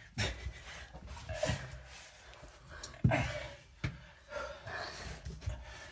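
Heavy, panting breathing from close by during strenuous crawling through a narrow tunnel, with a few short knocks and scrapes.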